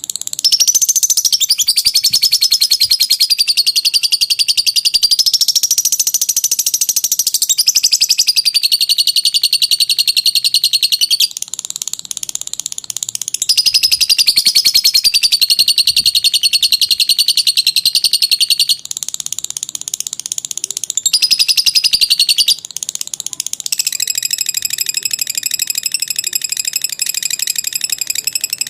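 Lovebird giving its long 'ngekek' song: a loud, rapid, high-pitched chattering trill held for long stretches. The first bout runs about eleven seconds, the next about five, and a short one follows, with softer chatter between bouts and toward the end.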